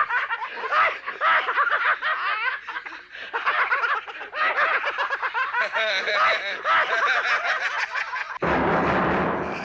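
Recorded laughter, a mechanical-sounding laugh played from a film's soundtrack, running in long cackling bursts. About eight seconds in, it is cut off by a sudden loud, harsh noise that lasts just over a second.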